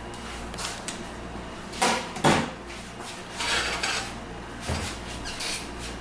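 Kitchen dishes and a baking pan being handled, with two sharp knocks about two seconds in and further clatter and scraping after.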